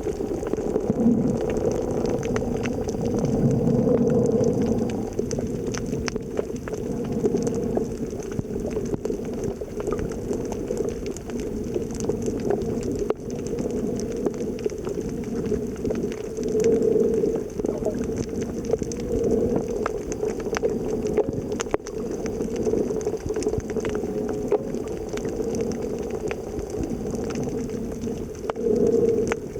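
Muffled underwater water noise from a snorkeler's camera, with a steady low rushing and bubbling that swells now and then, and scattered faint clicks.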